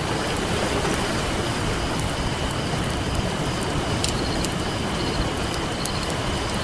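Campfire crackling with scattered sharp pops over a steady wash of ocean surf.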